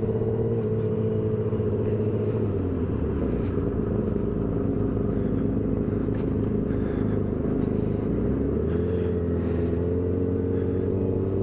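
Yamaha R6 sport bike's inline-four engine running steadily at low revs, its pitch shifting slightly about three seconds in and again near nine seconds.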